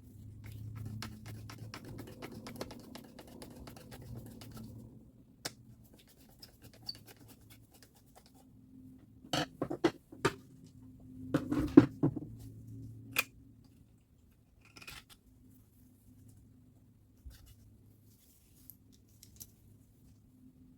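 Workbench handling noises during disassembly of a reciprocating saw: a few seconds of fast scratchy clicking, then a cluster of sharp clacks and knocks of metal parts or tools being set down about halfway through, followed by a few lighter taps.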